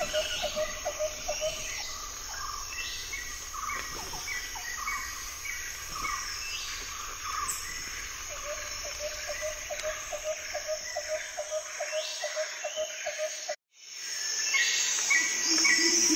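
Forest ambience of insects and birds: a steady high insect drone, a bird's low note repeated about three times a second, and scattered chirps. The sound cuts out briefly near the end and comes back louder.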